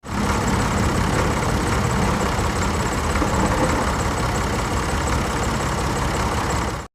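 Tractor engine running steadily with a rapid low pulsing, starting and cutting off abruptly.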